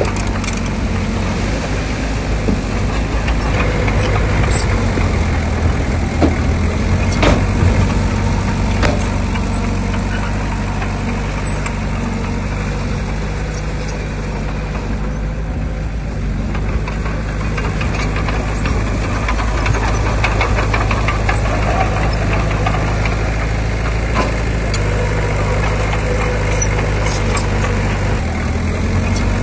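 Heavy diesel engine of earthmoving machinery running steadily, easing off briefly about halfway through and picking up again, with scattered clanks and knocks.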